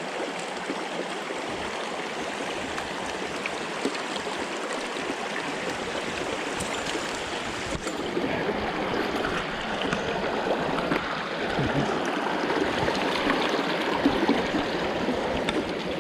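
Mountain stream water rushing steadily over rocks. About eight seconds in, the sound changes abruptly and becomes a little louder.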